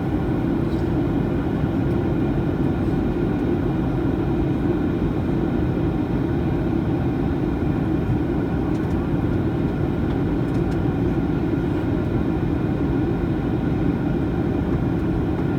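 Steady cabin drone of a Boeing 737-900ER in flight: its CFM56-7B engines and the rush of air, heard from inside the cabin as an even, low noise that does not change.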